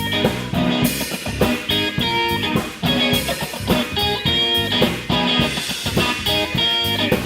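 Live blues band playing an instrumental stretch: electric guitar over bass guitar and drum kit.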